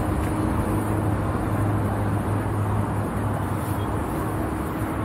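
Steady outdoor car-park noise with a low, even engine hum, as of a car idling close by.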